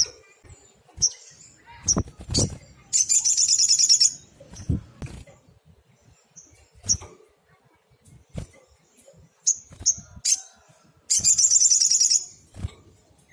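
Olive-backed sunbird singing: sharp high chips scattered through, and twice a loud, rapid, high-pitched trill about a second long. A few soft low thumps sound between the calls.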